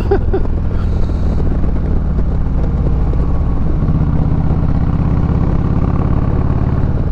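Motorcycle engine running at road speed on the move, with wind noise on the microphone; the engine note gets louder about four seconds in.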